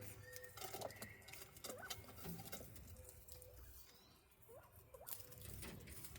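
Quail in an aviary: faint scratching, pattering and pecking clicks, with a few short soft rising peeps scattered through.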